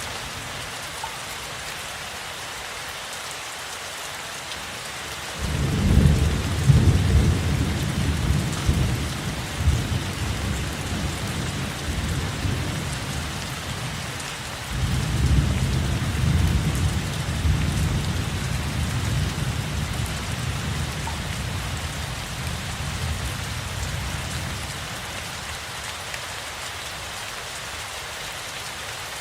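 Steady rain falling with two long rolls of thunder: the first breaks suddenly about five seconds in and rumbles for several seconds, a second starts about halfway through and slowly fades away.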